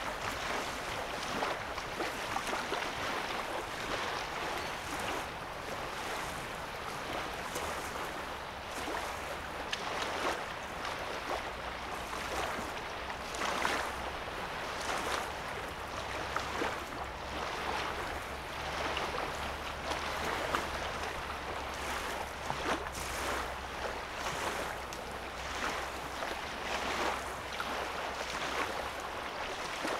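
Small lake wavelets lapping at a sandy shoreline: a constant wash of water broken by frequent irregular little splashes.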